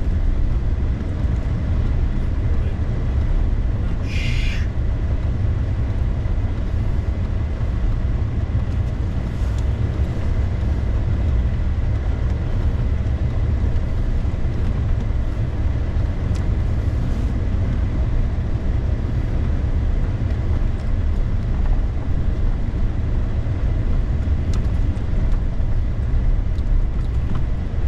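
Steady low rumble of a vehicle driving on a snow-covered road, tyre and engine noise without change, with one brief high squeak about four seconds in.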